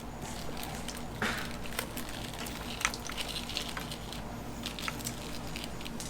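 Scattered small clicks and short rustles as plastic fuel-injector connectors and the wiring harness are unclipped and pulled off a GM LS V8 engine. A steady low hum runs underneath.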